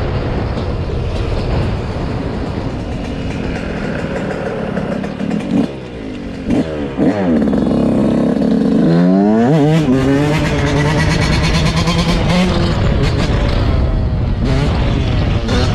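Dirt bike engine running while riding. The revs fall off about six seconds in, then climb again a few seconds later.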